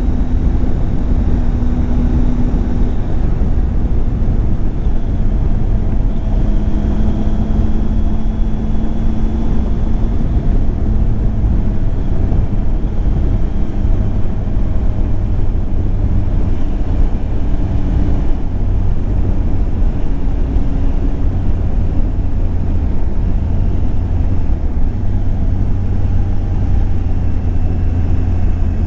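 Triumph Tiger 800 XCX's inline three-cylinder engine running while the motorcycle is ridden on the road, its note shifting in pitch a few times, under a steady low rush of wind noise.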